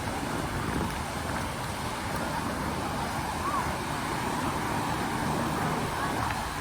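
Steady beach ambience: a constant rush of wind and surf noise.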